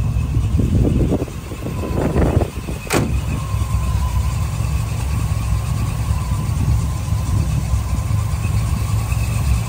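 1973 Chevrolet Corvette's V8 engine idling with a steady low rumble, with a single sharp knock about three seconds in.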